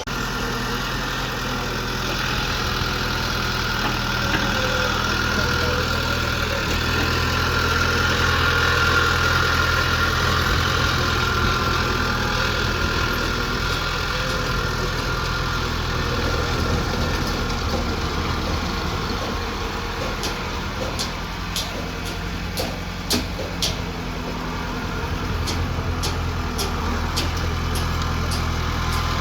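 An engine running steadily at idle with a low, even hum. Toward the end comes a run of sharp clicks or knocks.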